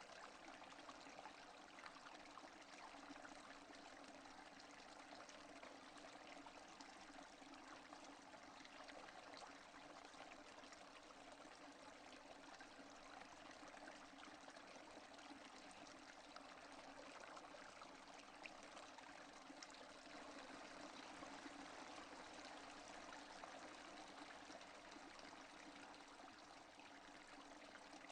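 Faint, steady rain with no thunder: an even hiss of water dotted with many small drop ticks.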